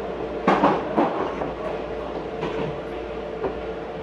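Meitetsu 4000-series electric train running, heard from inside the passenger car: a steady rumble and hum, with the wheels clacking over rail joints, loudest in a cluster about half a second in and again a couple of times later.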